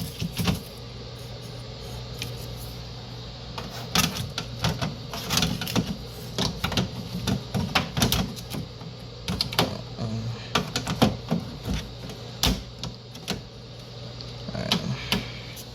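Irregular sharp clicks and knocks, some in quick runs, over the steady low hum of a running fan.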